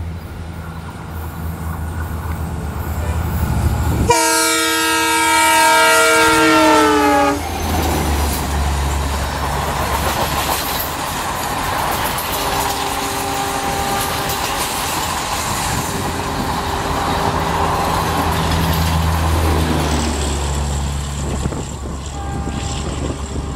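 Indian Railways diesel locomotive hauling an express passenger train past at speed. Its horn blows loudly for about three seconds, dropping in pitch near the end as it passes, followed by the steady rumble and wheel clatter of the coaches rolling by.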